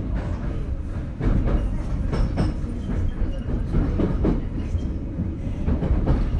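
JR Kyushu BEC819 series battery-electric train car running along the line, heard from inside the car: a steady low rumble with irregular clacks of the wheels over the track.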